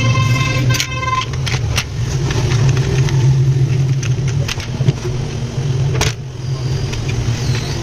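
Steady low mechanical hum with scattered clicks and knocks, the loudest about six seconds in, and a short high whine in the first second.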